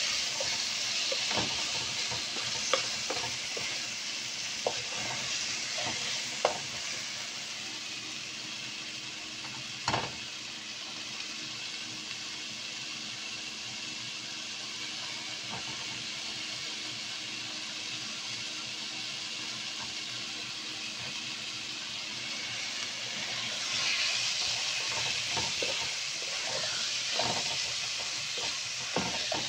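Chicken and bell peppers sizzling in a frying pan, with a wooden spatula scraping and knocking against the pan now and then. Near the end the sizzle grows louder and the scraping comes more often.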